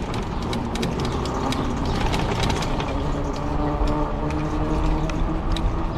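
E-bike on the move: a steady mechanical whine that settles to a level pitch about halfway through, with scattered clicks and rattles and a low rumble.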